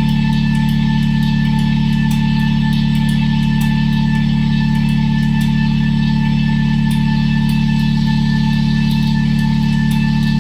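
Live noise music: a loud, unchanging low drone, with steady higher tones and a hiss above it and faint crackling clicks.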